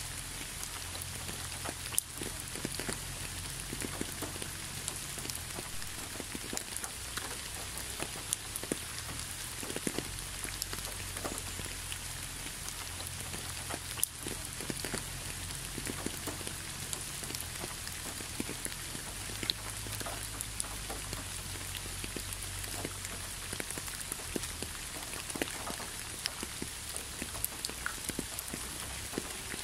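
Gentle rain falling steadily onto a leafy road: an even hiss of rainfall with many scattered individual drops ticking, a few of them louder than the rest.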